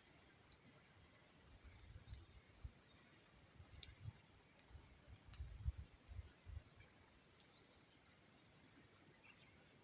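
Faint, sparse crackling and popping of a small wood campfire, with soft low bumps in between.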